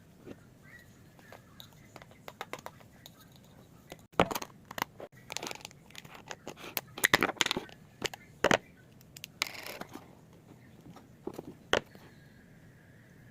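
Small objects being handled at close range: a string of sharp clicks and taps mixed with short rustling and scraping bursts, loudest in the middle.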